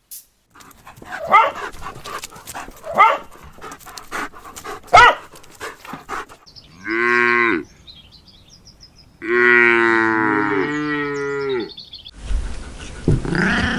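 Cattle mooing: a moo of about a second, then a longer drawn-out moo of nearly three seconds, after several shorter, quieter calls.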